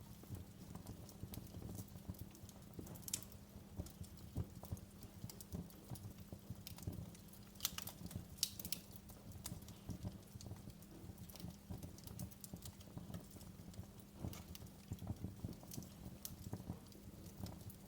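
Wood fire crackling in a fireplace: a constant run of small, irregular pops and snaps over a low rumble, with a few sharper pops about three seconds in and again around eight seconds.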